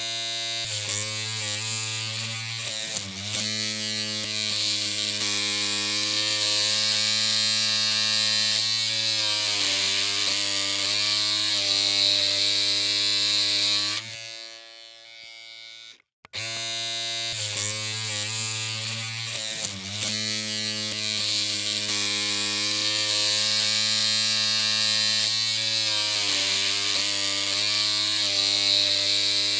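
Electric hair clippers humming with a steady, low buzz. The hum cuts off about halfway through, falls quiet for about two seconds, and starts again.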